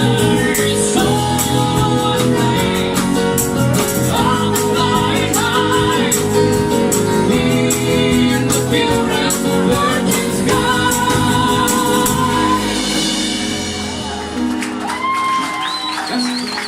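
Acoustic band performance: a singer over acoustic instruments with steady percussion in an even beat. Near the end the voice holds a long note that steps upward as the song closes.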